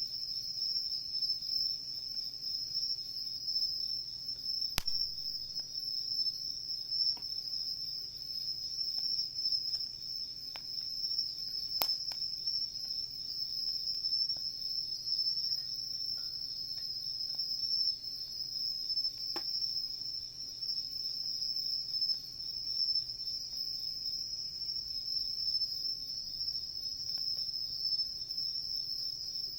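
Insects singing in a steady, high-pitched chorus, with a few sharp pops from a wood campfire crackling, about five, twelve and nineteen seconds in.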